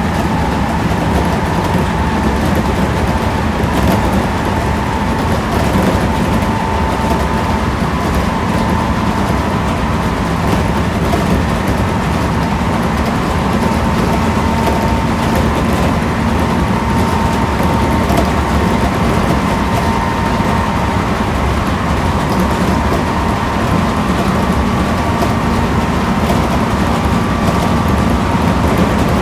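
JR Central 211 series 5000 electric train standing at a station, heard from inside the car: a steady hum with a thin, even whine from its onboard equipment, and no motor acceleration.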